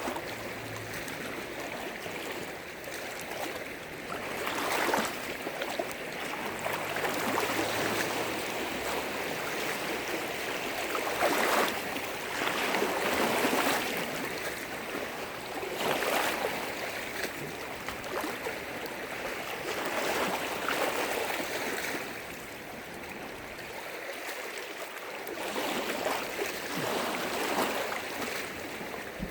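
Lake waves washing and breaking against the shore: a steady splashing that swells into louder surges every few seconds.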